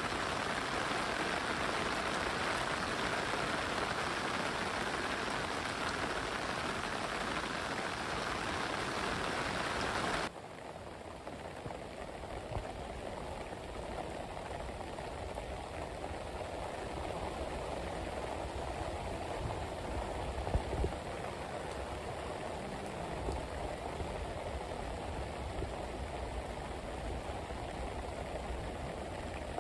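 Heavy rain falling as a steady hiss. About ten seconds in it drops suddenly to a quieter, duller rain sound with a faint low rumble underneath.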